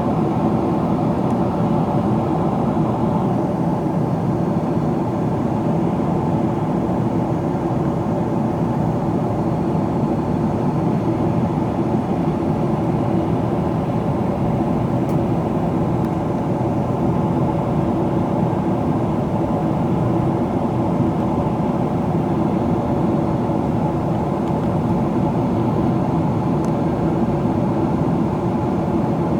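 Steady cabin noise inside a Boeing 777-300ER in descent: an even rush of airflow and engine noise from its GE90 engines, with a steady low hum.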